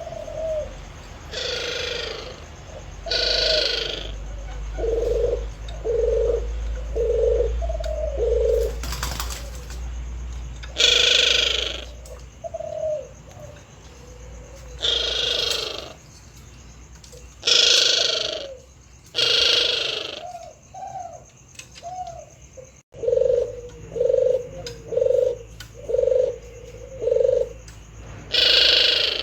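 Male puter doves cooing: runs of short, low coos, in places about one a second, broken every few seconds by a louder, higher-pitched burst.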